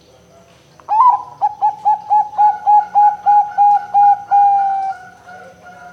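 Zebra dove (perkutut) singing: a run of about a dozen quick, evenly spaced coos at one pitch, starting about a second in and running into a longer drawn-out final note that fades away.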